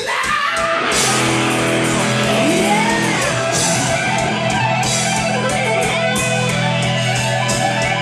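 Rock band playing live, electric guitar over drums, with the full band coming in about a second in and then holding steady.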